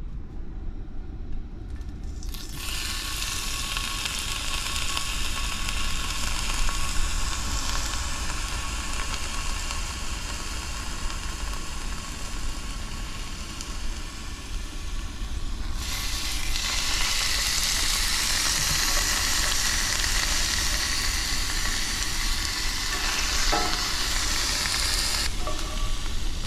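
Thin slices of beef sizzling in a pan over low heat. The sizzle starts about two seconds in and gets louder past the middle.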